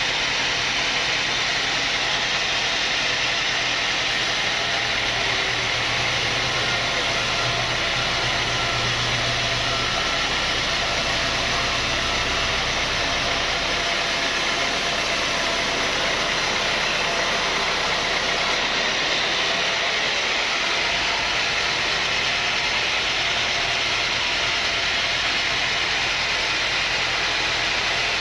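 Sawmill machinery running with a steady, even noise and a low hum underneath.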